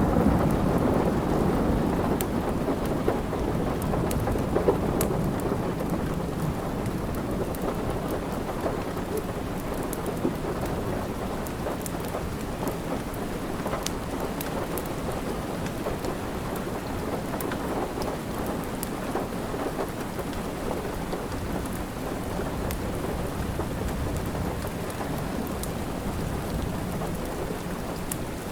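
Steady rain, with a low thunder rumble dying away over the first several seconds. Scattered sharp crackles of a wood fire in a fireplace are heard throughout.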